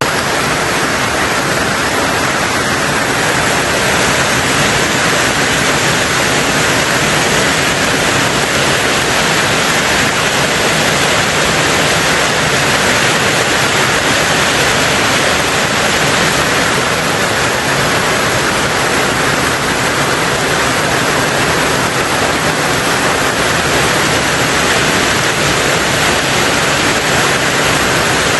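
Heavy rain falling on a tin roof, a steady, dense hiss in which no single drops stand out.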